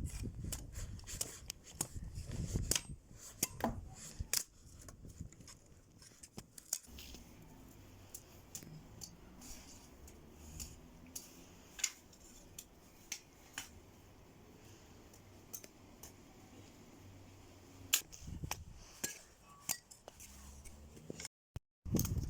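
Irregular sharp clicks and cracks of wood being cut into thin pieces of kindling, spaced unevenly, with a low rumble underneath.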